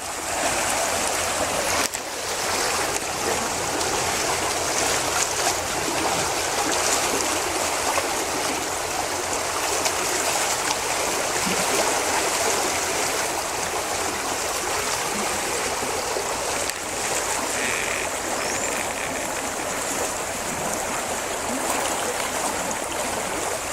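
Keremeos Creek swollen with spring runoff: a steady rushing of fast, high water.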